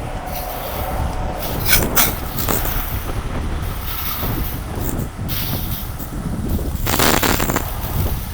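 Heavy tow truck engine running with a low steady rumble, a few sharp knocks about two seconds in and a short hiss near the end.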